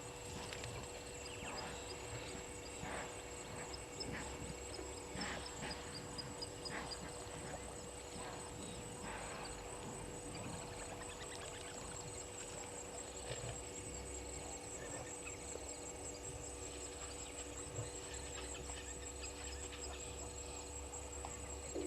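Bushveld waterhole ambience: a steady, rapidly pulsing high-pitched trill, typical of insects, runs throughout, with a steady low hum beneath it. Scattered short chirps and clicks, typical of birds, come mostly in the first half.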